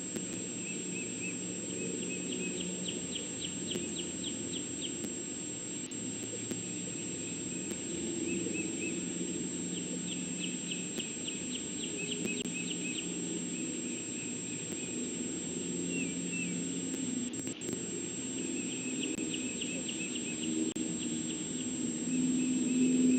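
Outdoor ambience with a songbird singing a rapid trill of quick repeated notes, three times, each lasting a few seconds, over a steady low rumble and a faint constant high whine.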